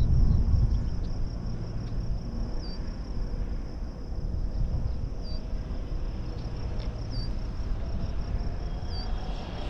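Wind rumbling on the microphone over a steady insect trill, with a short high chirp repeating about every two seconds. Near the end the faint, rising whine of an approaching Losi 22S drag car's electric motor comes in.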